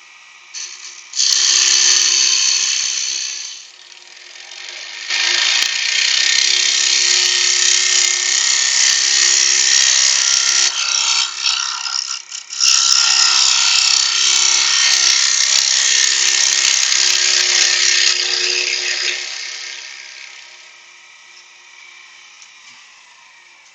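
Wood lathe spinning a spalted beech box blank at about 2000 rpm while a turning tool cuts out the inside, a loud scraping hiss in three long passes with short breaks, over the lathe's steady hum. After about 19 seconds the cutting stops and the sound fades away.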